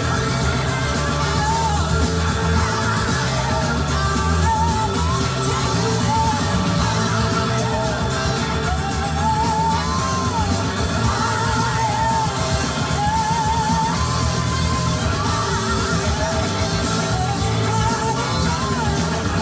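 Live rock band playing, with singing over electric guitar.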